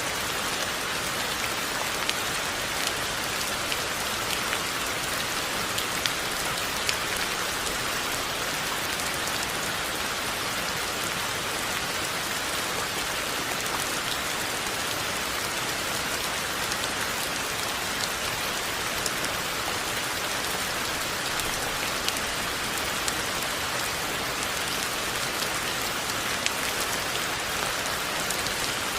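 Steady rain falling, an even hiss with scattered individual drop ticks throughout.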